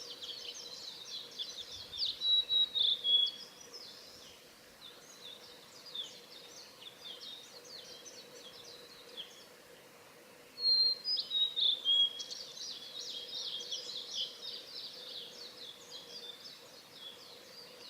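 Male blue-and-white flycatcher singing: two loud phrases of quick high whistled notes, each ending in a couple of lower held notes, about two seconds in and again about ten seconds in. Fainter rapid high chirping continues throughout.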